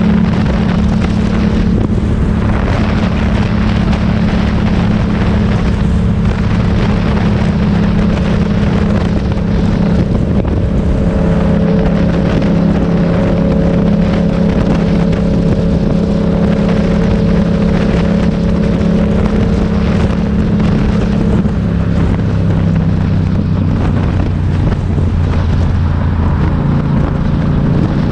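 Motorcycle engine running steadily while riding, with wind rushing over the microphone; the engine note changes about three-quarters of the way through.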